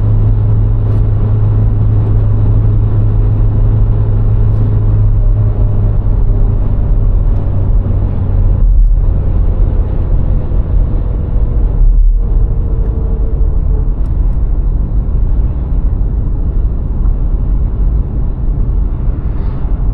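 VW Golf IV's 1.6-litre four-cylinder petrol engine and tyre noise, with a steady low hum and rumble while driving. The sound dips briefly twice, about 9 and 12 seconds in.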